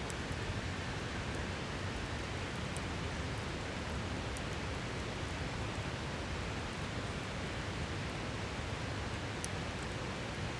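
A river rushing steadily, with a few faint, scattered crackles from a campfire over it.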